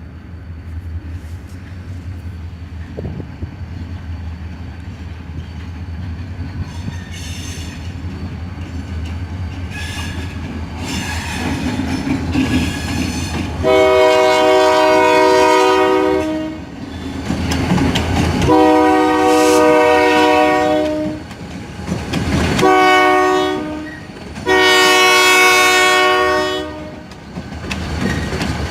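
Diesel freight locomotive approaching, its engine rumble building, then the air horn sounding long, long, short, long: the standard grade-crossing signal.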